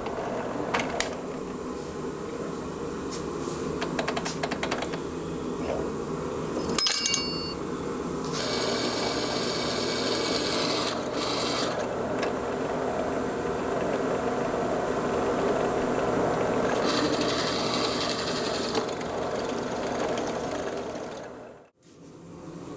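A power tool motor running steadily in a workshop, with a few louder stretches of harsher noise and some clicks, and a brief ringing tone about seven seconds in.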